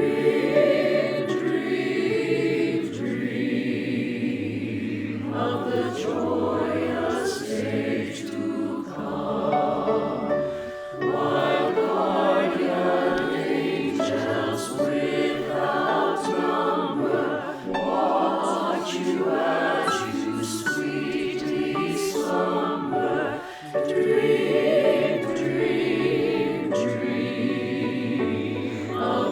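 Choir singing, the voices combined from separate home recordings into one virtual choir.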